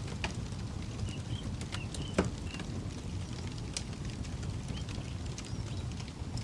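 Campfire crackling with scattered sharp pops, one louder pop about two seconds in, over a steady low rumble of wind and flame.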